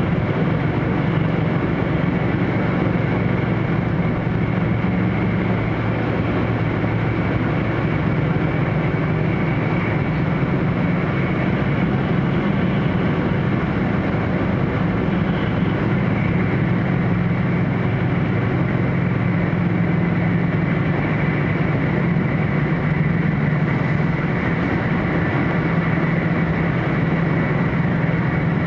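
Cabin running noise of an E4 series Max double-decker Shinkansen heard from the upper deck: a steady low hum with a fainter higher hum above it, unchanging throughout.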